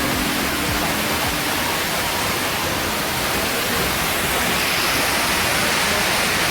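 A steady, even rushing hiss, like falling water.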